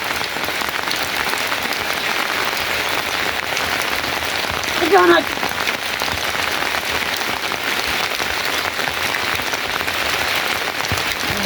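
Steady heavy rain falling on surfaces. About five seconds in, one short call with falling pitch rises above it.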